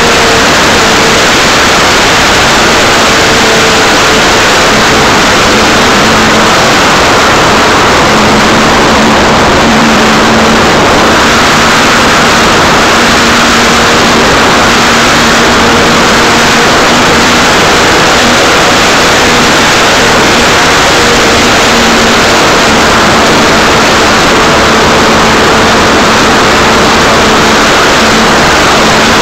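Electric motor and propeller of an Art-Tech Cessna 182 RC model plane running, heard from a keychain camera on its nose right behind the propeller: a loud, rushing drone with a steady hum that shifts slightly in pitch.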